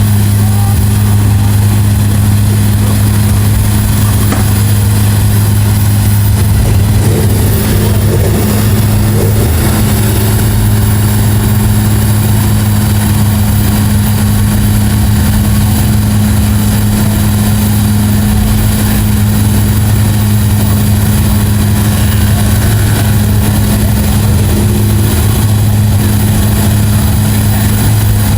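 Large engine running loud and close at a steady, unchanging speed, a low drone without revving.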